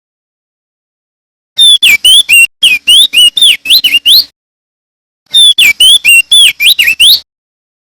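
Crested darkeye (opior jambul) singing: quick phrases of loud, clear whistled notes that sweep up and down. The song starts about a second and a half in and breaks off briefly before a last phrase.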